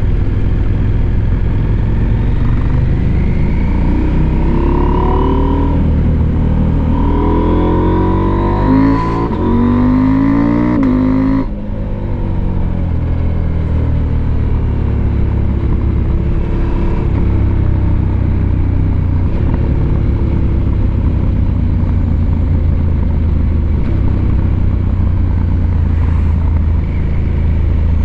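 Husqvarna Norden 901's parallel-twin engine under way, its pitch rising steadily as it accelerates, then cutting off sharply about halfway through, then running at a steady cruise with a constant low rumble of wind and road noise.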